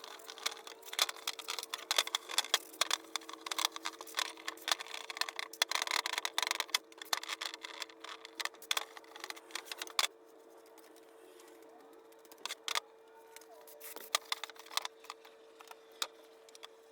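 Clicks and rattles of small metal parts and tools being handled: a dense run for about ten seconds, then scattered clicks, over a steady hum.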